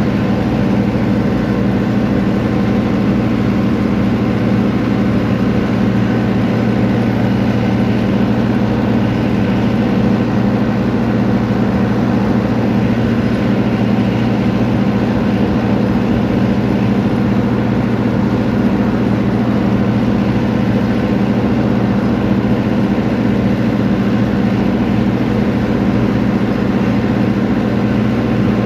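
A steady engine drone that holds the same pitch and level throughout.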